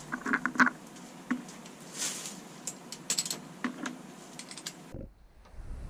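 Scattered light clicks and taps of small metal hardware being handled while fitting bolts on a motorcycle exhaust, with a couple of short rustles. The sound drops out briefly about five seconds in.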